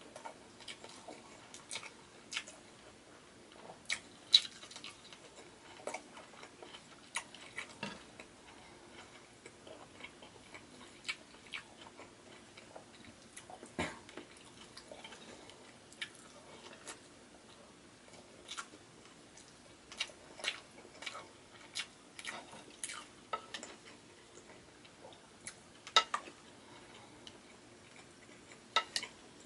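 Close-miked mouth sounds of a person chewing tender beef stew and rice: irregular wet clicks and lip smacks, a few of them louder.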